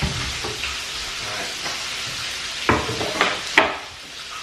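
Chicken breasts and onion frying in hot oil in pans, a steady sizzle. Three sharp knocks of kitchenware come about half a second apart in the second half.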